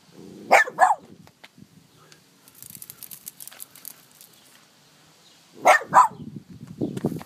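A dog barking at a cicada: two quick barks, then two more about five seconds later, with a brief scratchy rustling in between.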